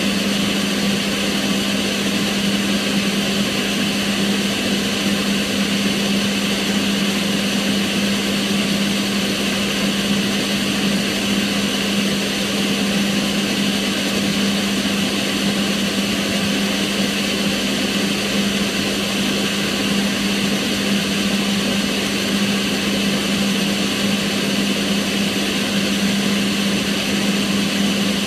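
Kitchen range hood exhaust fan running steadily: a constant motor hum with an even rush of air over it.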